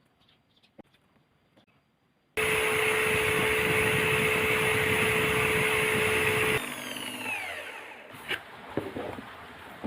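A small electric motor switches on suddenly, runs at steady speed with a constant whine for about four seconds, then cuts off and winds down with a falling whine. Light clicks and knocks of handling come before and after.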